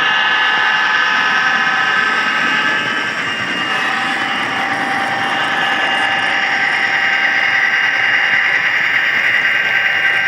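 HO-scale model train running: a steady mechanical hum with several high, steady whining tones that shift slightly partway through.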